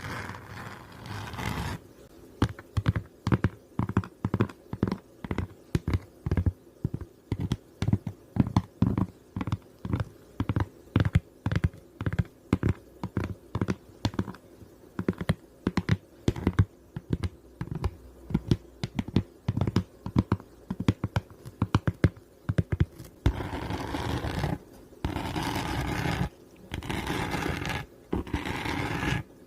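ASMR tapping and scratching on a glittery flower-shaped object: a long run of quick, irregular taps, two to three a second, then several longer scratching strokes near the end.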